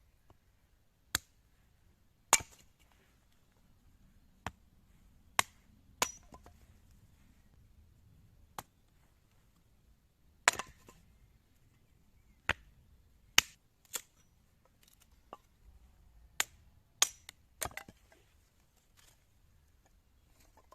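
Wood being chopped: about fifteen sharp knocks at uneven intervals, some loud and some faint.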